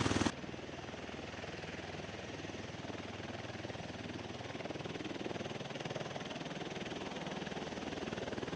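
V-22 Osprey tiltrotor's rotors and engines running: a steady noise with a fast, even beat. It drops sharply in level a moment in, then holds steady.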